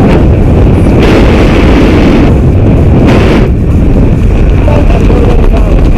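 Loud wind rushing and buffeting against a skydiver's camera microphone during the jump.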